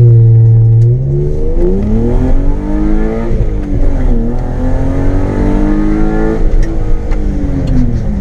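BMW M52B28 2.8-litre straight-six with a straight-piped exhaust, heard from inside the car, accelerating hard through the gears. The engine holds high revs at first, drops about a second in, then climbs again with further drops at shifts around three and four seconds in. It revs on up before the revs fall away over the last couple of seconds.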